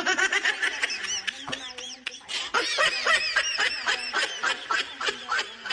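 A person laughing hard: a fast, unbroken run of short, high-pitched laugh bursts.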